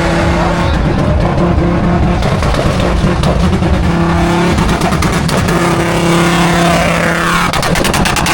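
Loud car engine revving at a car meet, with a steady drone that breaks off and returns. A falling whine comes about seven seconds in, followed by rapid crackling.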